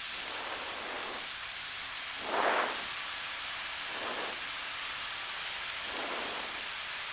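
Steady noise in the cockpit of a Cessna 172 on short final, with soft whooshing swells every second or two; the loudest comes about two and a half seconds in.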